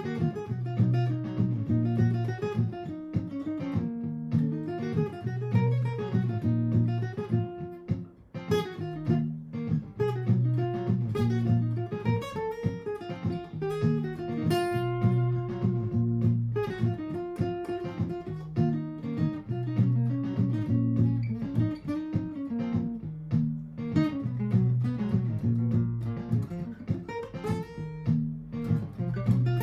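Martin GPCPA4 acoustic guitar played through a looper: a recorded low chord pattern repeats every few seconds while single-note improvised lines are played over it.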